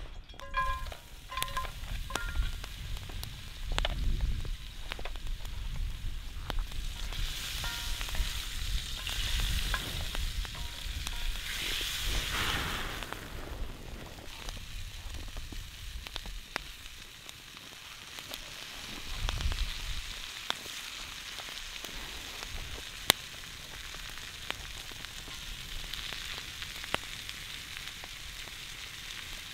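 Food frying in hot oil, sizzling steadily with scattered small crackles and pops. The sizzle swells louder for several seconds about a third of the way in, and there are a few short ringing clinks near the start.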